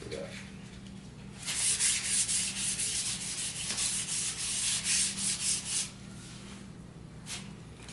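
Hand wet-sanding of primed fiberglass with 2000-grit sandpaper: quick back-and-forth rubbing strokes starting about a second and a half in and stopping about six seconds in, with one more short stroke near the end.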